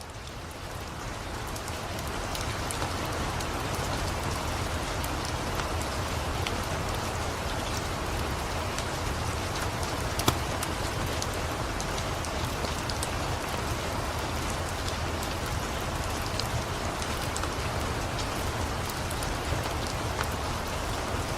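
Steady rain, fading in over the first couple of seconds, mixed with the scattered pops and crackles of a wood fire; one louder pop about ten seconds in.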